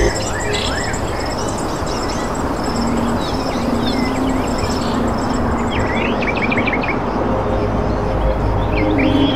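Small birds chirping and tweeting over a steady background hiss: repeated short high chirps, with a quick run of chirps about six to seven seconds in.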